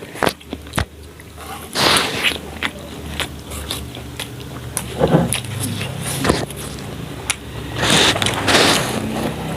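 A person eating instant noodles close to the microphone: chewing and mouth noises with small clicks. There are two longer noisy bursts, one about two seconds in and one near the end.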